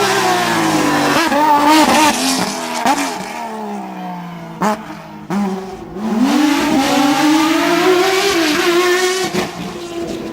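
Racing car engine on a hillclimb run, working through quick gear changes, then dropping in pitch as it slows with two sharp cracks midway, before accelerating again with a steadily rising pitch that levels off near the end.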